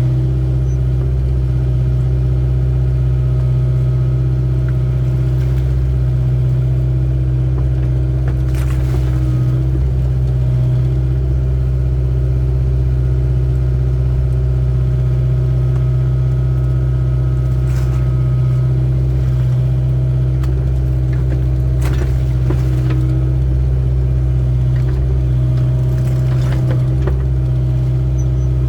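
Excavator's diesel engine running steadily while digging, with a few short sharp clanks spread through.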